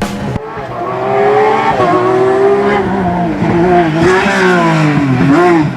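Porsche rally car engine at high revs on a special stage, its pitch climbing and dropping through gear changes. Near the end the revs rise and fall quickly several times.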